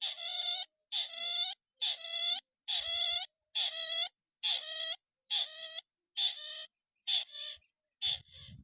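A crake calling over and over, about once a second: nasal, bleating notes roughly half a second each, shortening to clipped notes near the end.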